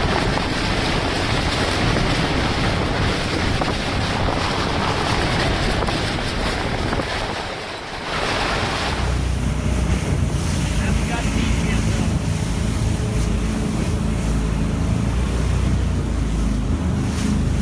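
Hurricane-force wind blasting the microphone, a dense steady rush that turns into a heavier low rumble about eight seconds in.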